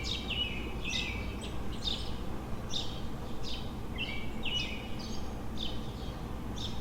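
Small songbirds chirping in quick, repeated short notes, with a couple of brief whistled notes, over a steady low rumble of city background noise.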